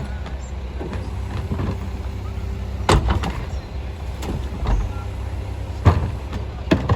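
Split-body garbage truck engine running steadily, with sharp knocks and bangs from the truck; the two loudest come about three seconds apart.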